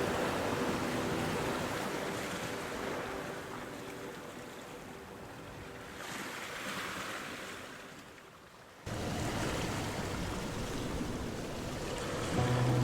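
Ocean surf washing in a steady hiss that slowly ebbs, then cuts back in suddenly about two-thirds of the way through, like a splice in the recording. Just before the end a low steady hum comes in.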